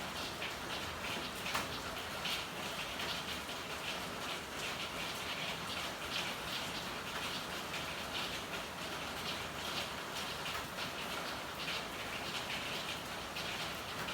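Steady rain falling in an alley: an even hiss with many small drops ticking, one slightly louder tick about a second and a half in.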